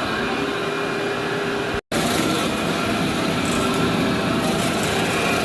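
Vacuum cleaner running steadily over carpet, a loud motor hum with a rough rumble underneath. The sound cuts out abruptly for a split second about two seconds in.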